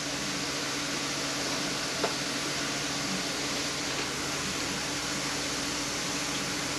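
Steady whirring hum of a workshop fan, with a low hum tone under it. A faint tick comes about two seconds in.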